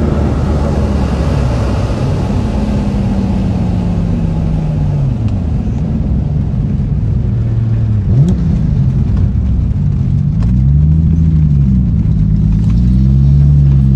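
Toyota 2JZ straight-six in a BMW E36 M3, heard from inside the cabin as the car slows from high speed. Its revs fall and rise several times, over wind and road noise that fades as the car slows.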